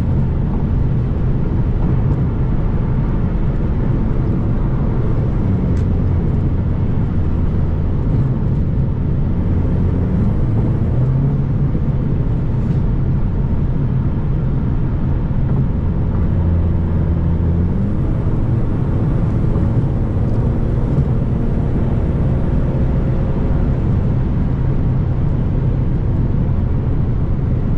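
Car engine and road noise while driving, heard from inside the car: a steady low drone, with the engine pitch rising briefly about ten seconds in and again around seventeen seconds.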